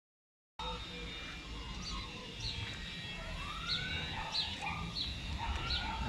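Birds calling outdoors: a short high chirp repeated about every two-thirds of a second, with lower rising and falling calls among them, over a low background rumble. The sound starts abruptly a moment in, after a brief silence.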